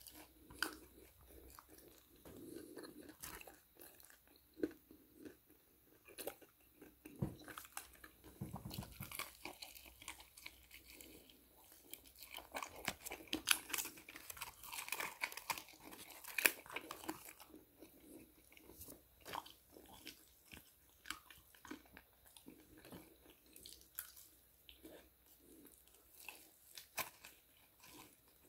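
A person chewing crispy KFC fried chicken close to the microphone, with irregular crunches of the coating between bites.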